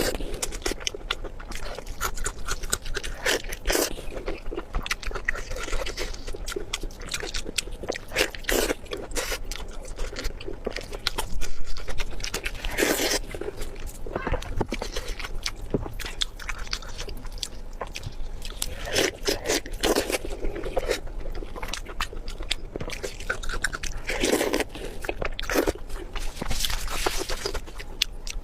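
Close-miked eating: steady chewing and biting with many short crunchy, wet clicks, loudest a little before halfway.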